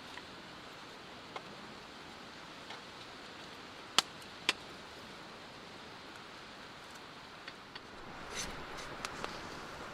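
Steady faint hiss with a few sharp clicks scattered through it, the two loudest about half a second apart near the middle, and a stretch of rustling near the end.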